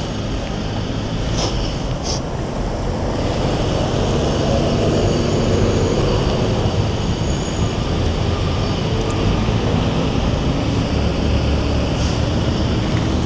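Steady road and traffic noise heard from a moving bicycle, with a couple of sharp clicks about a second and a half and two seconds in and a vehicle's motor rising in pitch near the end.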